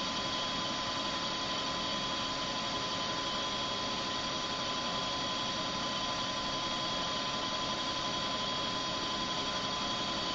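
Comet 3KVHD milling machine running steadily, an even hum with a steady high whine and no change in pitch.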